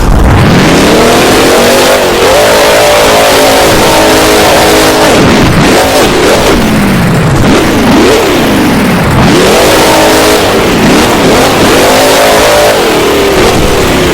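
Monster truck's supercharged V8 revving hard over and over, its pitch climbing, holding high, then dropping and surging again several times. The recording is very loud throughout.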